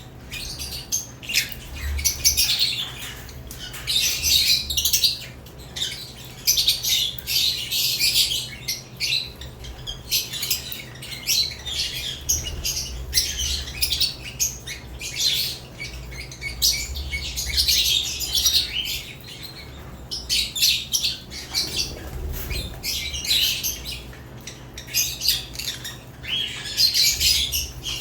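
Lovebirds in a cage chirping, in busy bouts a few seconds apart, over a low steady hum.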